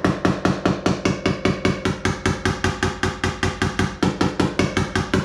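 Body hammer tapping rapidly and steadily on the steel body panel of a 2000 Chevrolet Suburban, about four to five even blows a second. The light repeated blows are working a dent out of the sheet metal.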